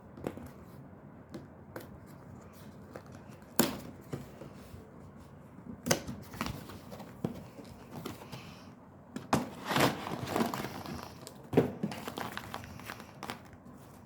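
Packaging being handled and opened by hand: crinkling and tearing rustles with irregular clicks, and several louder sharp snaps along the way.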